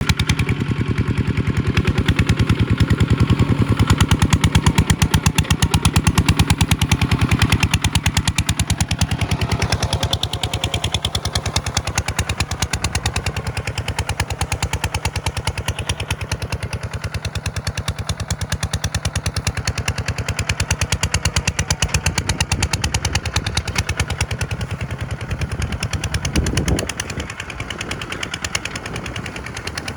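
Tractor diesel engine running under load close to the microphone, a rapid, even chatter of exhaust pulses that eases slightly after the first few seconds.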